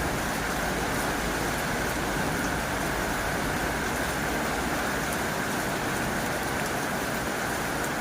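Heavy rain falling steadily on a tin roof: an even, unbroken hiss with faint scattered drop ticks.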